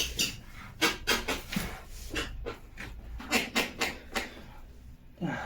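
Wooden bed frame creaking in a series of short, irregular squeaks as it is pressed on. The noise comes from a loose crossbeam with no screw holding it, rubbing against the bed's side rail.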